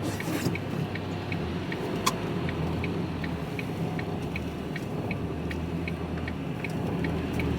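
Van's turn-signal indicator ticking evenly, about three clicks a second, over the engine idling, with one sharper click about two seconds in.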